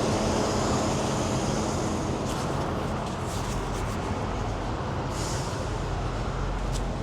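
Truck engine running steadily with a low drone and road or air noise, easing off slightly after about two seconds.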